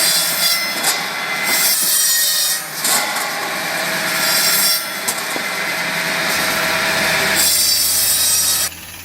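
A machine saw cutting through firewood logs, several cuts one after another. The noise brightens and eases with each cut and drops away sharply near the end.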